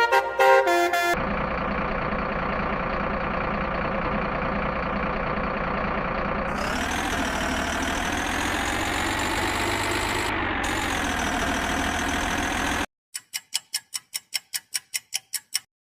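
A truck engine sound effect running steadily and then revving up and down in pitch, cutting off suddenly, followed by a quick run of ticks at about four a second. Music fades out about a second in.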